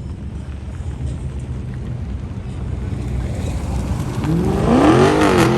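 Car engine rumbling low, then revving hard about four seconds in, its pitch climbing, dipping briefly and climbing again as it gets louder.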